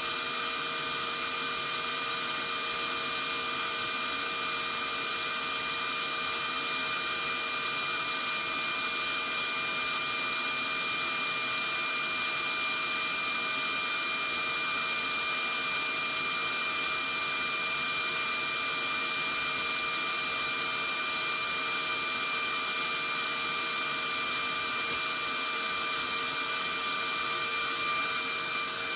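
Vacuum cleaner running steadily: a constant airy hiss with a fixed high motor whine, unchanging throughout.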